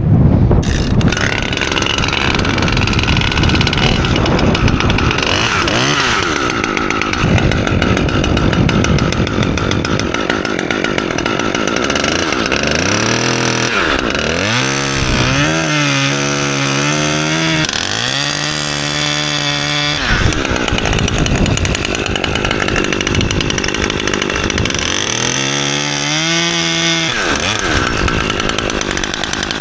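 Chainsaw cutting a pine branch. The engine pitch rises and falls as the throttle is worked, settling into steadier runs twice in the second half.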